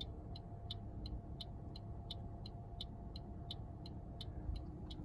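Hazard-light flasher ticking evenly, about three ticks a second, over the low steady hum of the car's 1.8 L four-cylinder idling.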